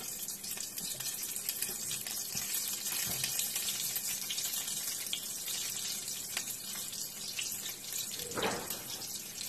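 Sliced onion rings frying in hot oil in a frying pan: a steady high sizzle, with a few light clicks and a brief louder burst near the end.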